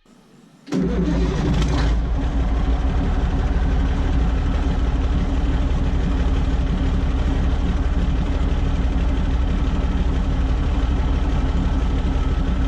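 An engine starts running abruptly less than a second in, then runs steadily at a constant speed with a deep hum.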